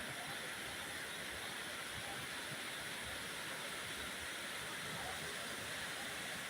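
Steady rushing of floodwater, an even unbroken noise.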